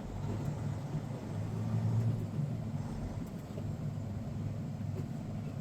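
Diesel engine of a semi-truck tanker running in slow traffic, a steady low drone that swells slightly about two seconds in.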